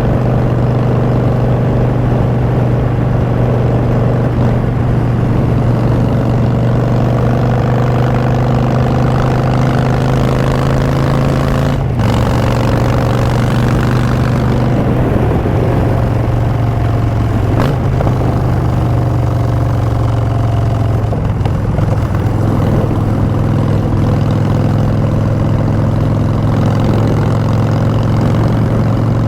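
Harley-Davidson Street Bob's Twin Cam V-twin running through Vance & Hines Short Shots exhaust while the bike is ridden, the engine note mostly steady with a short break about twelve seconds in.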